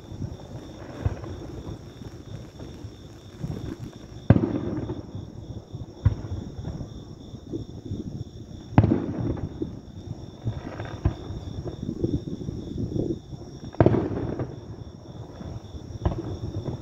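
Aerial firework shells bursting: three loud booms about four to five seconds apart, with several softer thuds between them, each booming shell trailing off in a rumbling echo.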